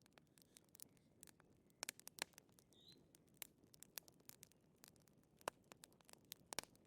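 Wood fire crackling softly, with irregular sharp pops and snaps over a faint hiss.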